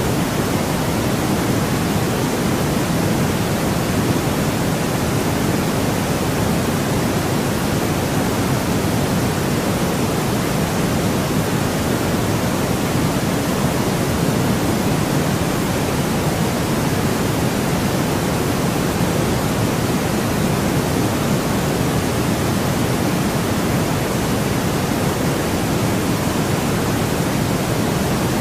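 Steady, unbroken white noise from a sleep-sound track, with no changes or events. It is fuller in the low end than in the highs, closer to a deep hiss than a thin one.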